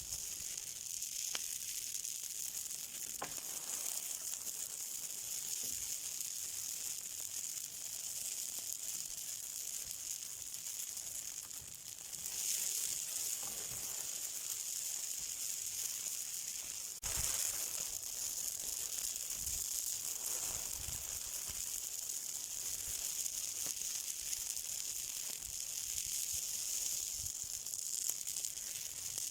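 Something burning with a steady high hiss and a few faint crackles, stepping up a little in level about twelve and seventeen seconds in.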